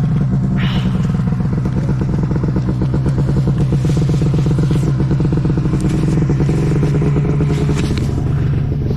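Snowmobile engine running loud and close at steady revs, with a brief higher squeak about half a second in.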